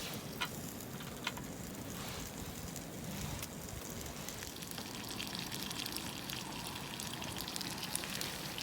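Garlic-cheese chicken frying, a steady sizzle with fine crackle and a couple of sharp ticks in the first second and a half.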